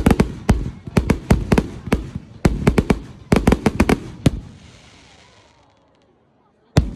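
Fireworks exploding in a rapid string of sharp bangs, dying away after about four seconds, with one more bang near the end.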